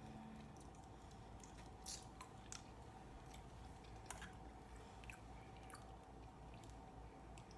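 Faint wet chewing of a seafood boil (shrimp and mussels), with soft, scattered mouth clicks and squishes every second or so over a low steady hum.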